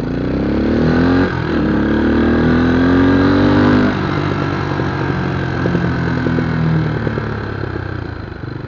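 Scrambler motorcycle engine accelerating: the pitch climbs, drops suddenly at a gear change about a second in, then climbs again. A few seconds in the throttle eases and the engine runs lower and less evenly, fading toward the end.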